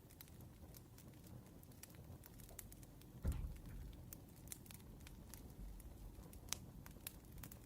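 Faint campfire crackling, with scattered sharp pops, and a soft low thump about three seconds in.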